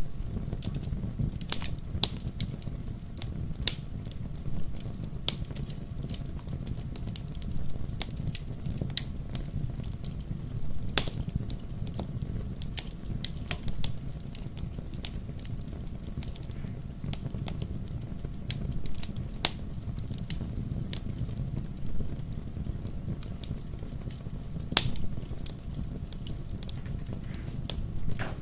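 Wood fire crackling in a fireplace: a steady low rumble of flames with frequent sharp pops and snaps, two of them louder, about eleven seconds in and near the end.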